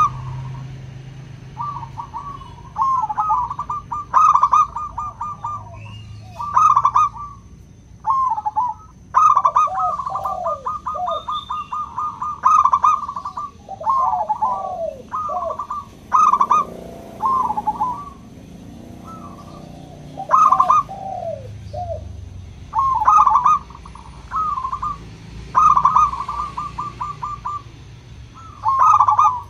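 Zebra doves cooing: repeated rapid, stuttering coo phrases, with lower curved notes from a second bird overlapping some of them. The calling pauses for about four seconds around the middle.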